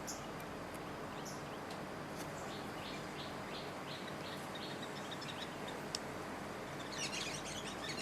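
Birds chirping: a run of short, high repeated notes, about three a second, in the middle, then a quick flurry of high chirps near the end, over a steady faint outdoor hiss.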